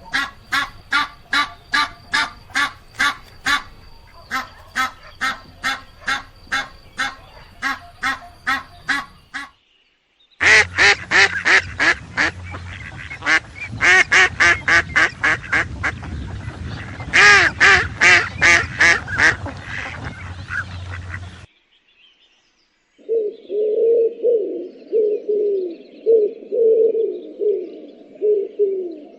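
Recordings of different birds calling, cut together one after another: a run of quick, evenly repeated calls, then after a short break about ten seconds in, louder repeated calls, and near the end a different bird giving low calls.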